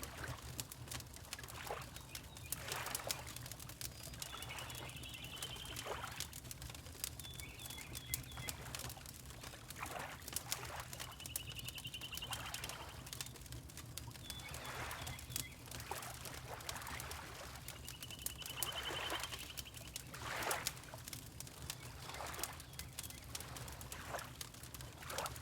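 Fireplace crackling with frequent small pops over a low steady rumble, water lapping in soft swells every second or two, and a small bird giving a short rapid trill about five times.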